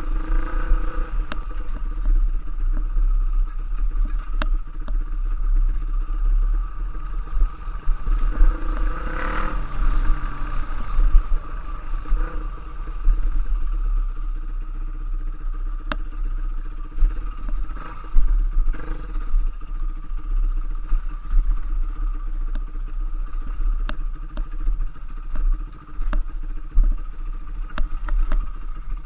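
Dirt bike engine running steadily while riding a trail, with scattered knocks and clatter throughout and a brief rise in engine sound about nine seconds in.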